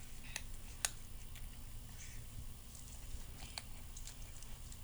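Feral kitten eating food from a person's hand: faint, scattered smacks and clicks of its chewing and licking.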